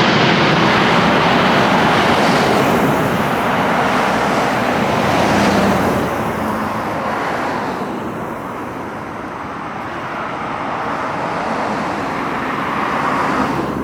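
Jet airliner climbing away after takeoff: a loud, rushing engine noise that fades after about six seconds, with a smaller swell near the end.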